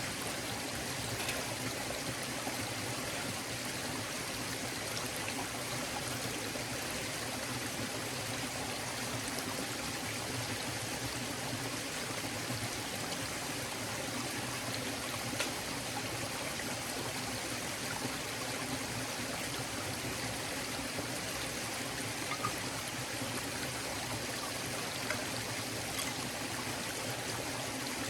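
Forest stream flowing steadily, water running and trickling over stones, with a few faint clicks.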